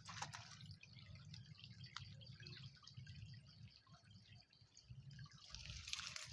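Near silence: faint outdoor ambience with a low rumble and a few soft ticks.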